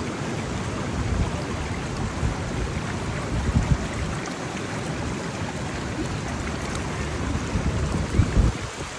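Steady rush of storm floodwater, with wind gusting over the microphone in low rumbles, strongest about three and a half seconds in and again near the end.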